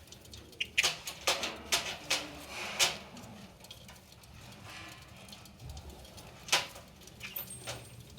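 Budgies moving about their cage and clay nest pot: a quick run of sharp scratches and taps in the first three seconds, then another about six and a half seconds in and a few more near the end.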